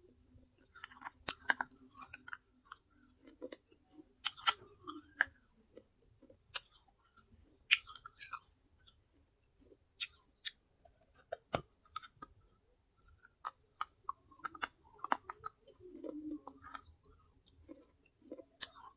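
Close-up chewing of pieces of baked clay pot: sharp, irregular crunches and clicks with wet mouth sounds between them.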